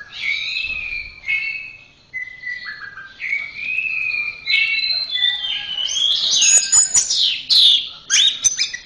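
Orange-headed thrush (anis merah) singing a continuous run of varied whistled phrases. About two-thirds of the way through, the song gets louder and harsher, with quick, sharp high notes.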